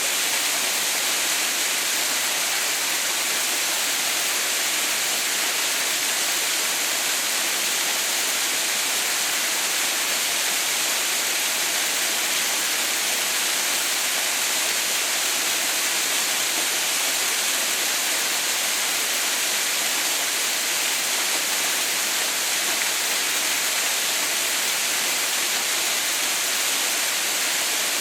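Waterfall pouring and splashing steadily, an even, bright hiss of falling water with no change throughout.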